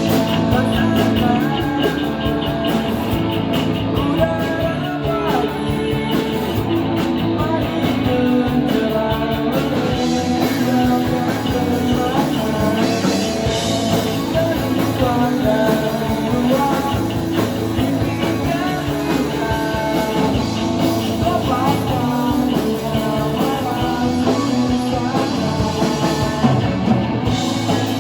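Rock band playing a song, with electric guitar, drum kit and a singing voice.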